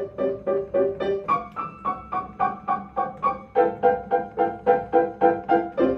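Piano playing short repeated notes in a steady, quick rhythm, about four a second, moving to higher notes about a second in and back lower past the middle.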